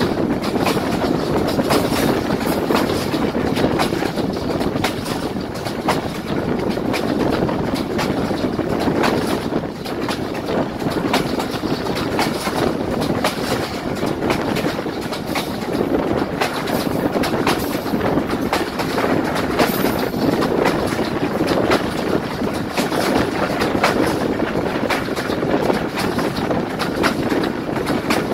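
Passenger train running at speed, heard from on board: a steady rumble of the wheels on the track, with frequent sharp clicks and clatter from the wheels and coach.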